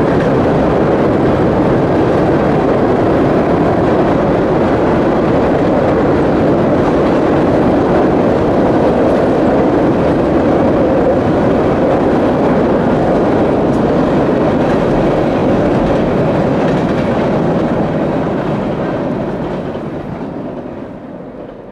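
Freight train cars rolling across a long steel trestle bridge, a steady clattering rumble of wheels on the rails. It fades out near the end.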